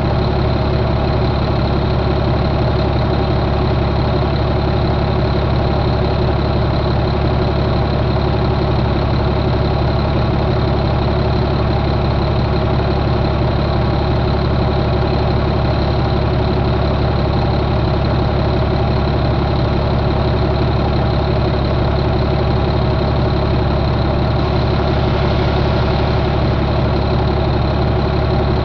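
2008 Caterpillar C7 inline-six diesel engine idling steadily.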